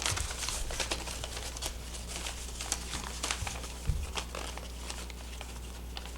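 Irregular crinkling and clicking of things being handled, over a steady low hum.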